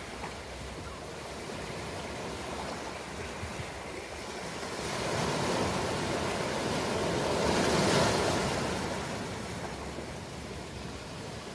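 Ocean waves breaking on a shore. One wave swells up through the middle and peaks with a rush of surf about eight seconds in, then washes back down.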